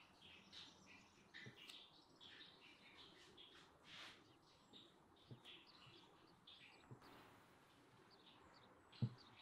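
Faint birds chirping in short, scattered calls. A few soft knocks, then a sharper thump just after nine seconds, the loudest sound.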